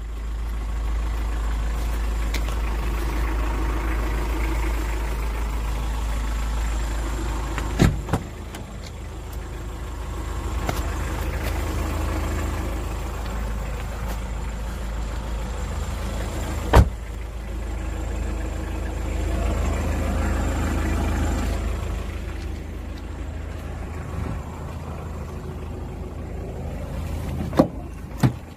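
Vehicle engine idling steadily, with four sharp knocks scattered through it, two close together near the end.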